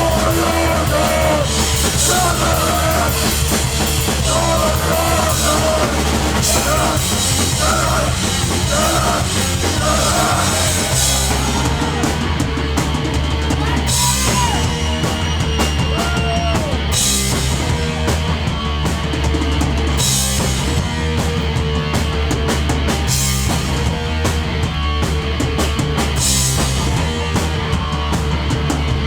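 Live hardcore punk band playing loud and fast: drum kit with repeated cymbal crashes over distorted guitar and bass. Vocals are yelled over the first ten seconds or so, then the playing goes on without them.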